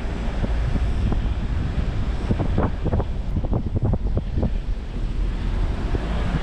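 Jeep Wrangler driving on a rough unpaved forest road: a steady low rumble with irregular knocks and thuds from the bumps, and wind buffeting the microphone.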